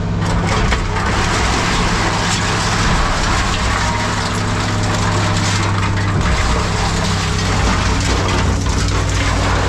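Heavy machine's diesel engine running steadily under a continuous crunching and clattering of scrap metal being grabbed and crushed.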